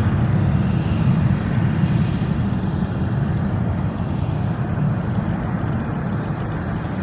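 Airplane engines rumbling as an aircraft passes, slowly fading away.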